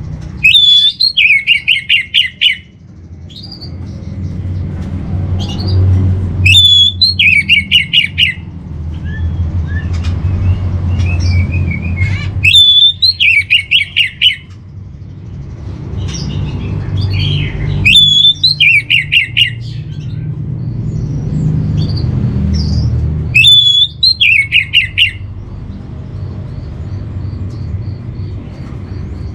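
Orange-headed thrush (anis merah) singing: five repeated phrases about six seconds apart, each a clear whistled note followed by a quick run of about eight notes. A low rumble rises and falls underneath.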